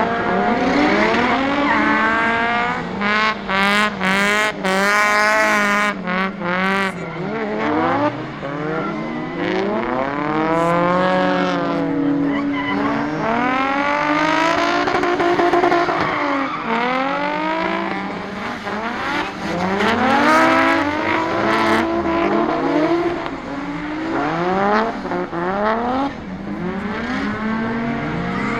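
Drift cars' engines revving hard and falling back again and again, the pitch sweeping up and down, with tyres squealing as the cars slide.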